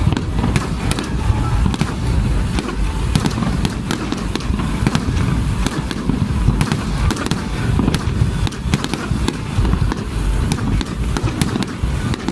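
Fireworks display in full swing: a continuous barrage of deep booms from bursting aerial shells, overlaid with many sharp crackles.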